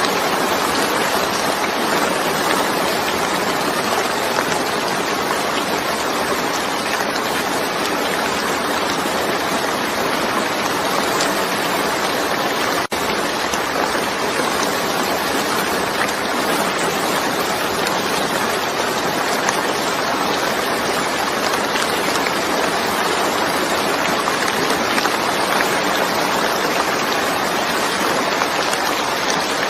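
Heavy rain falling steadily, a dense even hiss of water, with a momentary break about thirteen seconds in.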